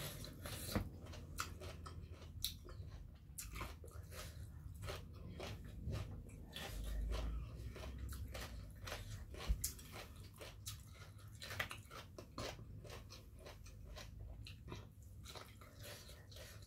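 A person chewing a mouthful of crunchy food, green papaya salad and raw vegetables, with many short crisp crunches and mouth clicks throughout.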